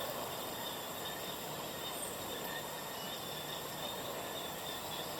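Steady outdoor insect chorus, a few unbroken high shrill tones over an even rushing noise.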